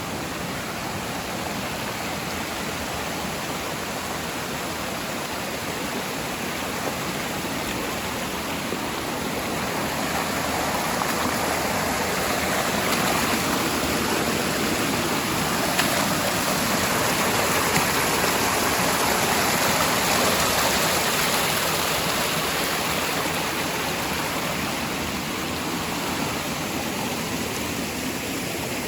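Steady rush of flowing water from a mountain stream or waterfall. It grows louder through the middle and eases off again near the end.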